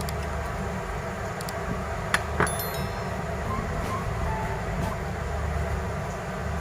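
A steady low hum with two small sharp clicks about a quarter second apart, a little over two seconds in: a hard tool or part tapping against the phone during disassembly.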